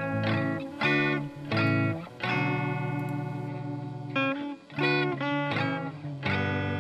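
Instrumental break in a song: guitar playing chords with an effects-treated tone, over a bass line.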